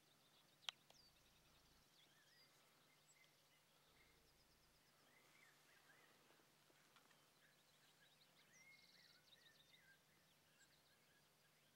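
Faint chirps and short trills of small birds, coming now and then over a quiet open-air background with a faint steady low hum. A single sharp click comes about a second in.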